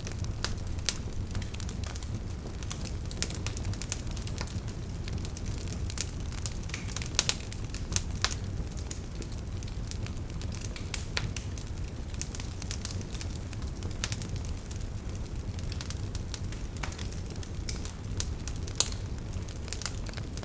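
Wood campfire burning: a steady low rumble of flames with irregular crackles and sharp pops of burning firewood, a few louder pops standing out.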